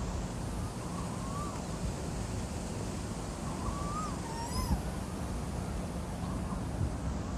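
Asian koel calling twice, each call a short gliding note that rises and then falls, over a steady low rumble.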